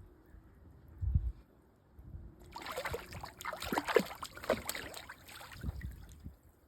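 A goose splashing as it bathes in water: a burst of splashing lasting about three seconds, starting about two and a half seconds in, then tapering off. A brief low thump comes about a second in.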